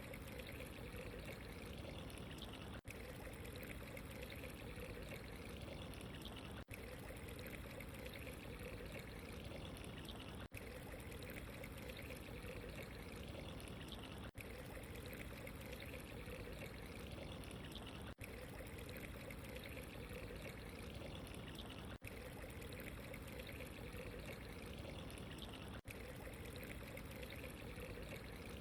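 Steady running water, an even wash of sound broken by a brief dropout about every four seconds, as in a short looped water recording.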